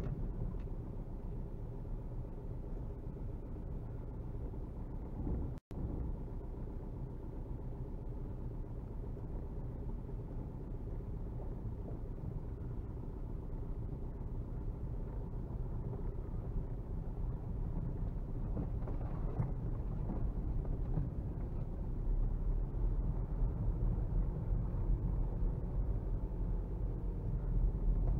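Cabin sound of a VW Golf Mk4's 1.9 TDI four-cylinder turbodiesel pulling at low speed, with tyres rumbling over a rough snowy dirt track. The sound cuts out for an instant about five and a half seconds in, and the low rumble grows heavier in the last few seconds.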